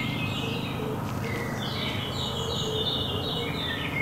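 Small birds chirping and singing in short high stepped phrases, busiest in the middle, over a steady low hum.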